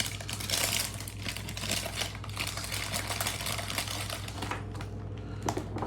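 A small cardboard blind box and the packaging inside it being opened and handled: a steady string of small irregular clicks, scrapes and crinkles.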